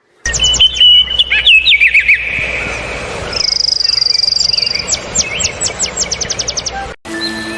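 A songbird singing: chirps and short sweeping whistles, then a fast trill held for about a second and a half, then a quick run of sharply falling notes. It cuts off suddenly near the end.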